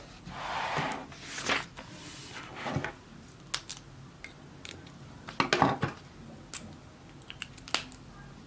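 Small objects being handled close up: a series of light clicks and taps with a few brief rustles, the busiest cluster a little past halfway.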